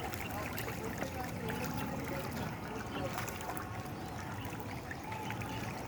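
Steady water noise at a fish pond, with scattered small clicks and splashes at the surface.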